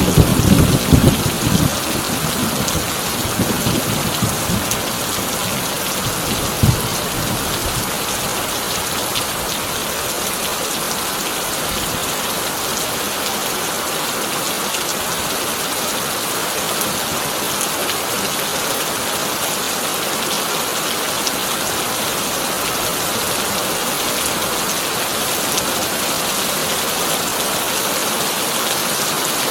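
Heavy rain drumming steadily on a corrugated tin roof. A thunder rumble at the start dies away over the first few seconds, and a shorter crack of thunder follows at about six and a half seconds.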